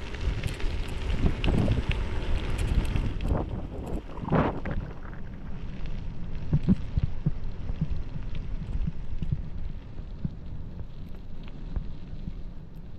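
Wind buffeting the camera's microphone, a gusty low rumble typical of riding a bicycle downhill, with a few short knocks, the strongest about four seconds in.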